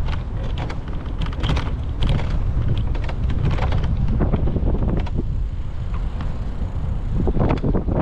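Wind buffeting the microphone of a camera on a moving bicycle, a steady low rumble, with scattered short rattles and knocks from the bike riding over the path.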